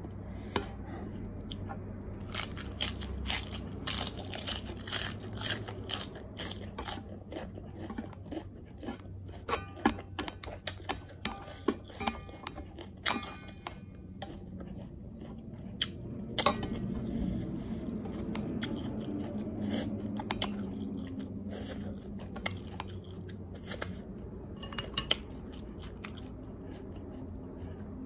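Close-miked chewing and crunching of a fresh lettuce leaf wrapped around spicy noodles, with wet mouth clicks and smacks. There are occasional clinks of chopsticks against a stainless steel tray. The crunching is dense through the first half and thins to a few clicks later.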